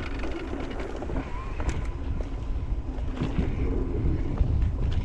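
Electric mountain bike riding a dirt trail: wind buffeting the helmet-camera microphone over a low rumble of tyres, with scattered sharp knocks and clatters from the bike on the ground. A faint steady whine from the e-bike's drive motor comes in about a second in.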